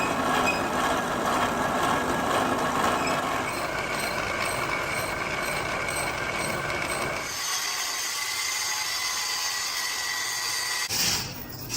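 Workshop machinery running steadily, a dense mechanical noise with a few steady tones. About seven seconds in it changes to a thinner, higher hiss.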